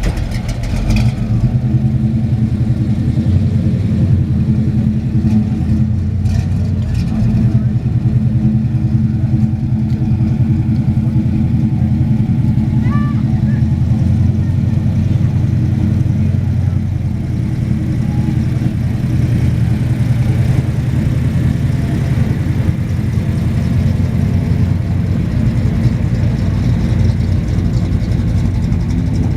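A car engine idling steadily and loudly close by, a low, even running sound with a fast regular pulse.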